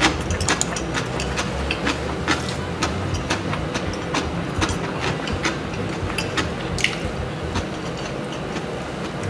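A person chewing food with wet mouth clicks and smacks, several a second and uneven, over a steady low drone that the eater puts down to construction work outside.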